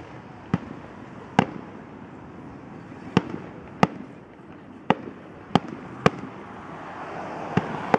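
Fireworks display: about nine sharp bangs of bursting aerial shells at irregular intervals over a steady background noise.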